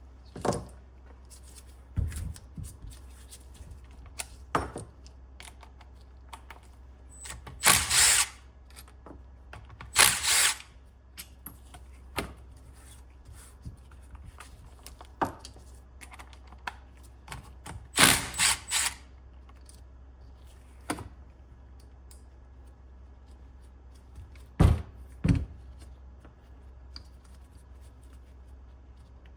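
Intermittent work with tools on a car's starter motor: scattered clicks and knocks, with three louder short bursts of a power tool about 8, 10 and 18 seconds in.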